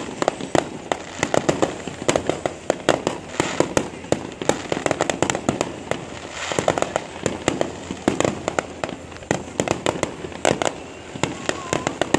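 Aerial firework shells bursting overhead in quick succession: a steady string of sharp bangs and crackling pops, several a second, with no break.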